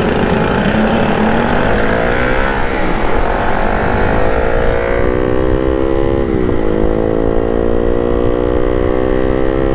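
Honda Sonic 150's single-cylinder engine pulling hard as the bike accelerates, its pitch climbing. About six and a half seconds in it dips briefly at a gear change and then climbs again. Wind rush on the helmet microphone runs underneath.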